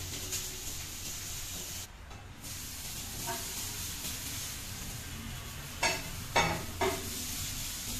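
Food sizzling in frying pans over gas burners, a steady hiss, with three sharp knocks of a utensil against a pan about three quarters of the way through.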